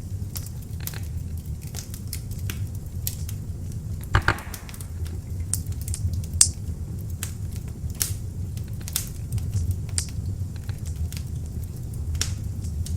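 Beech logs burning in an open fireplace: a steady low rumble of flames with frequent sharp crackles and pops, two of them louder, about four seconds and six and a half seconds in.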